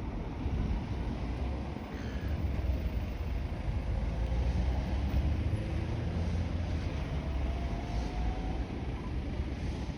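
A heritage shuttle train's locomotive running as the train pulls away: a low rumble that builds a couple of seconds in, with a faint rising tone in the middle of it.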